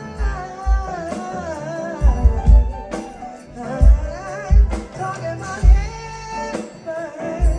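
Live R&B/funk band playing, with a wavering sung melody over a steady kick-drum beat and cymbals.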